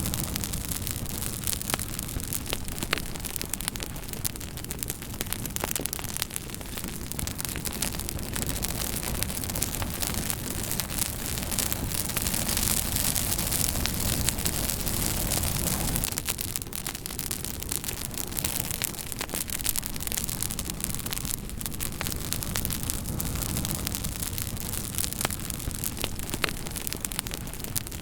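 Campfire burning with a steady hiss and frequent sharp crackles and pops of burning wood; the hiss swells a little about halfway through.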